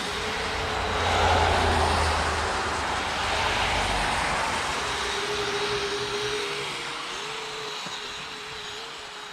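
Kyosho Blizzard 2.0 RC tracked snow vehicle running on twin brushless motors: an electric motor whine over track noise, louder about a second in, wavering in pitch later on and fading toward the end.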